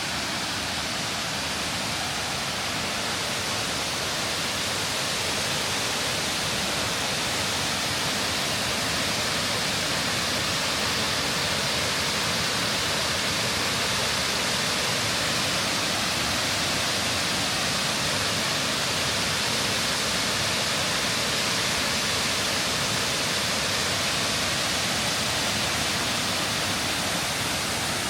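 Waterfall: a steady, loud rushing of falling water that does not change.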